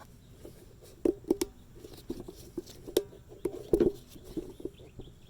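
Irregular small clicks, taps and knocks of fuel pump parts and their packaging being handled, with the sharpest knocks about a second in, at three seconds and near four seconds.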